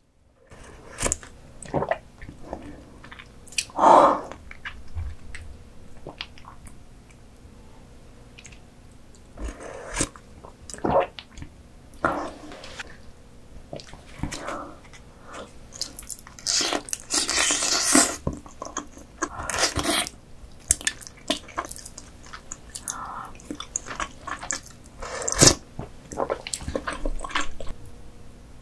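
Close-miked ASMR eating sounds of raw croaker: chewing and biting, with irregular wet clicks and smacks and a denser spell of wet mouth noise a little past halfway.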